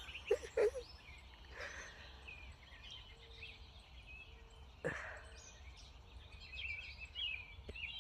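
Faint background ambience with a steady low rumble and small birds chirping now and then, most often in the second half. There is one short knock about five seconds in.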